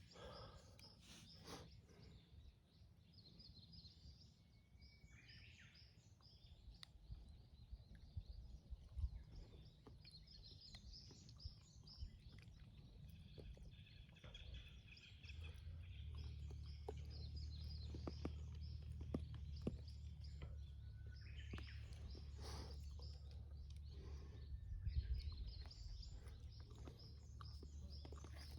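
Small birds chirping and twittering in the distance, with a low rumble underneath that grows louder about halfway through.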